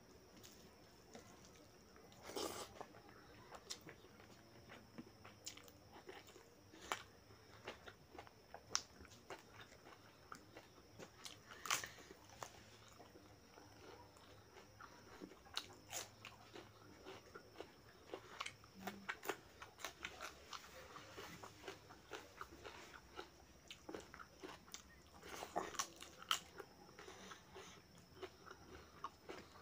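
Close-up eating sounds: chewing mouthfuls of rice and mutton curry, with many sharp crackling crunches of crisp papad, a few of them louder.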